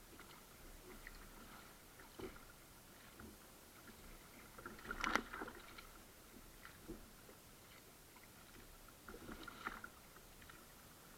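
Kayak paddle blades dipping and splashing in the water in a few irregular strokes, the loudest about five seconds in.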